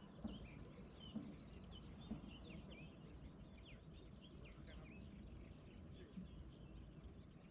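Faint birdsong: many quick high chirps from small birds over a low outdoor background hum, thinning out toward the end.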